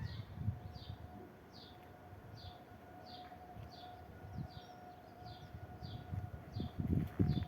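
Level crossing audible warning alarm sounding, a short high falling tone repeated about every 0.7 s, over a steady lower tone. Low rumbling thumps swell near the end.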